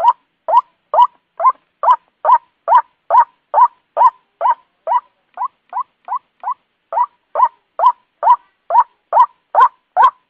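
White-breasted waterhen calling, a steady run of short, sharp 'kwak' notes at about two a second, each rising quickly in pitch. The notes are a little softer for a couple of seconds midway.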